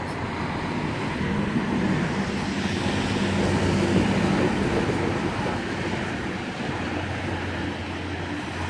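V-set electric double-deck intercity train running in along the platform: a steady rumble of wheels and a low motor hum, building to its loudest about four seconds in and then easing off.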